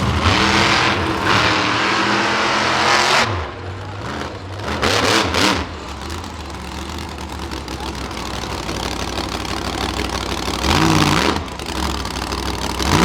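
Monster truck engines revving in bursts: a long rev over the first three seconds, another around five seconds in and a shorter one near the end, with the engines running at a steady lower note between them.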